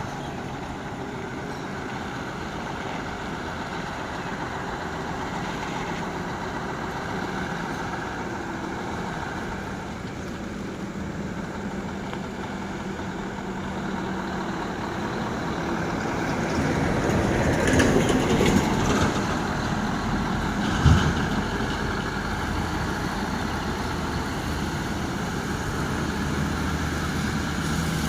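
Heavy truck engine running under a steady rumble of vehicle noise. It grows louder for a couple of seconds about two-thirds of the way through, and a single sharp thump comes shortly after.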